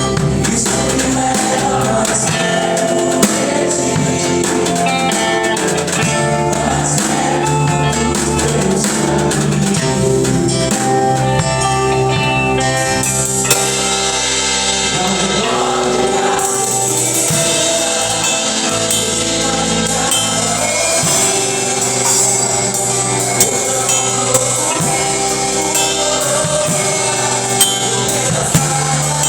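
Live gospel worship music: voices singing over instruments, with a tambourine shaking and striking along.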